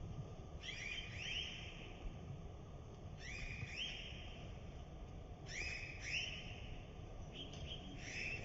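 A bird calling: short whistled notes that each rise quickly and then hold, in groups of two or three about every two and a half seconds, over a low steady rumble.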